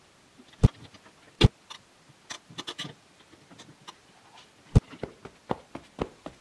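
Toys being handled: three sharp knocks, one just under a second in, one about a second and a half in, and one near the end, with lighter clicks and taps between them.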